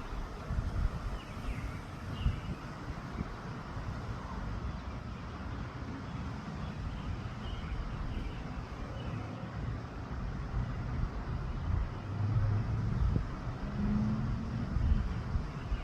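Wind gusting across the microphone: a low, uneven rumbling buffet that swells and eases, strongest near the end.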